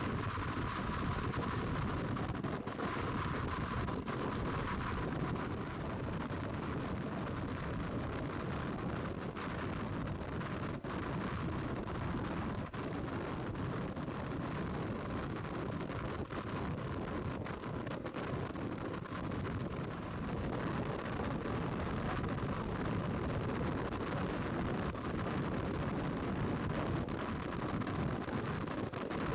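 Motorcycle riding at speed: steady wind rush over the microphone mixed with the running of the BMW R1200 GS Adventure's boxer-twin engine.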